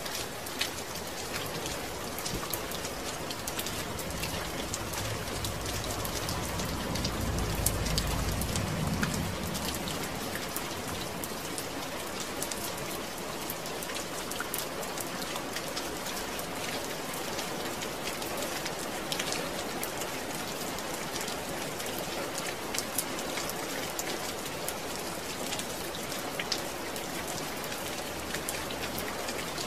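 Steady rain falling on a surface: an even hiss with many scattered drop ticks. A low rumble swells briefly about seven seconds in.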